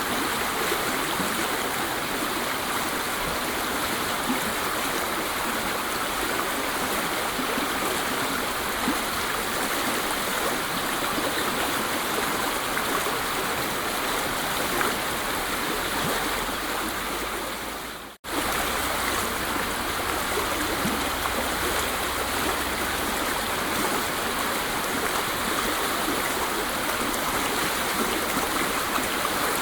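Waterfall: a steady, even rush of falling water. About two-thirds of the way through it dips away for an instant and comes straight back, as at a loop point.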